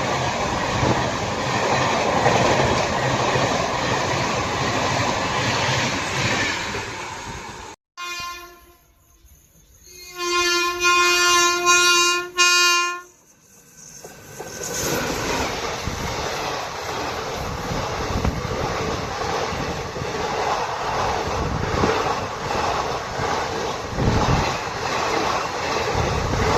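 Express train passing at speed, with a steady rush and rattle of wheels and carriages. After an abrupt cut, a locomotive horn sounds one long blast then a short one. Another train then passes with the same steady rush and clatter of wheels on track.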